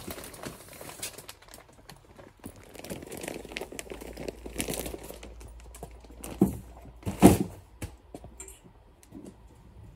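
A large plastic sack of horse chaff being handled: crinkling and rustling of the plastic with scattered clicks, then two heavy thuds a little under a second apart past the middle, the second the loudest, as the sack lands in a metal shop trolley.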